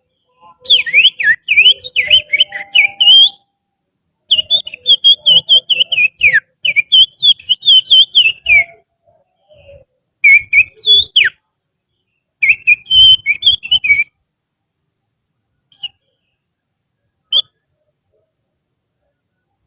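Finger whistling imitating the chattering song of an oriental magpie-robin (kacer): fast runs of swooping, warbled chirps in four phrases with short pauses between, then two short single notes near the end.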